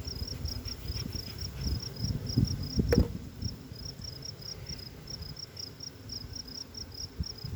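A cricket chirping steadily in the background, about three high chirps a second, over low bumps and rustles, with one sharp click about three seconds in.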